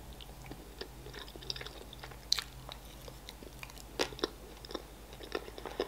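Close-up mouth sounds of chewing a spoonful of chocolate cake with a shortbread base and butter cream: soft, wet chewing with scattered crunches, the sharpest about two and four seconds in.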